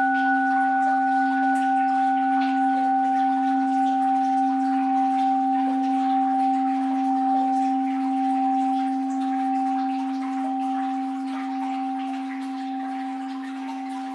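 An orin, the Japanese Buddhist bowl bell, ringing on after a single strike: a low hum with two higher overtones, wavering slightly and slowly fading. Under it a soft wash of flowing water.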